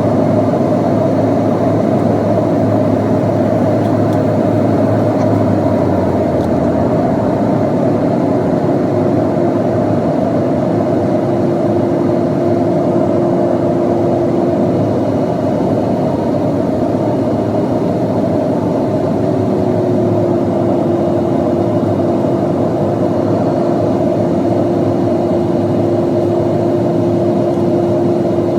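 Steady cabin noise of a Boeing 737-800 in flight: a loud, even rush of airflow and CFM56-7B engine drone. A faint steady hum comes in about a third of the way through.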